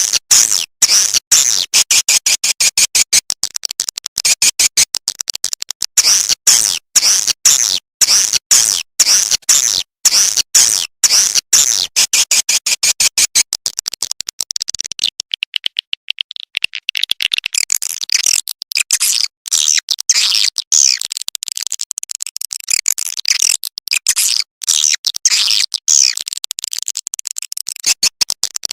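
Recorded swiftlet calls, a 'suara panggil' calling track of the kind played from swiftlet houses to draw the birds in: dense, rapid high-pitched chirps and twitters in quick runs of short pulses. About halfway through, the low noise beneath drops away and the chirping thins a little.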